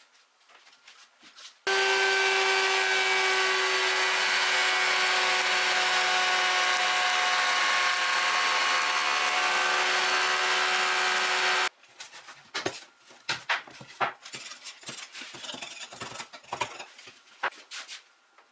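A woodworking power tool runs at a steady pitch for about ten seconds, starting and stopping abruptly. It is followed by scattered knocks and scraping of hand work on wood.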